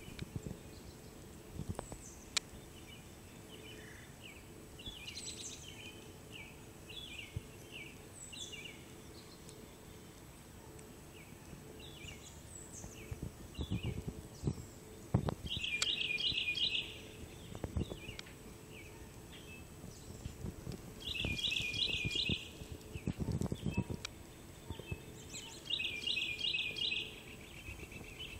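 Small birds singing: a run of short chirping notes, then three fast, high trills of about a second and a half each, in the second half. Low rumbles come and go on the microphone.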